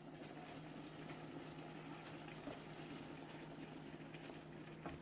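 Beaten egg and chopped-vegetable omelette mixture sizzling faintly in hot oil in a frying pan, with small crackles, over a low steady hum. A light knock comes near the end.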